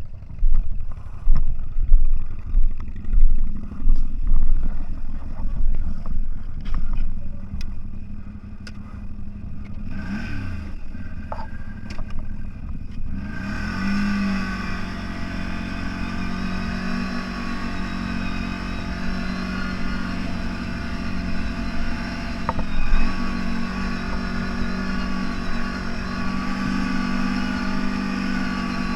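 Off-road vehicle engine running at a steady pace. For the first half it is buried under heavy wind buffeting on the microphone and some clatter. From about halfway in the engine's steady drone comes through plainly.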